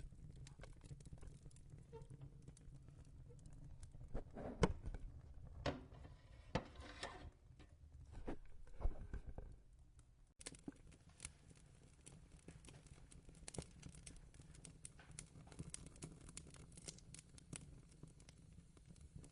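Fireplace fire crackling, with irregular small pops over a low steady rumble. A few louder knocks and rustles come in the middle.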